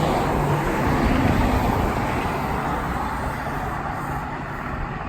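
Road traffic: a passing vehicle's tyre and engine noise, loudest about a second in and slowly fading.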